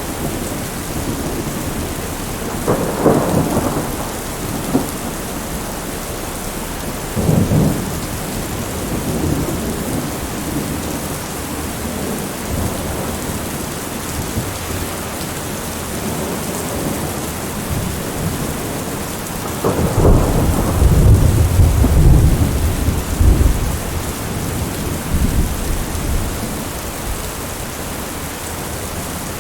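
Steady rain with thunder rumbling over it: short rolls about three seconds in and again at about seven seconds, then a longer, louder deep rumble from about twenty seconds in that dies away over several seconds.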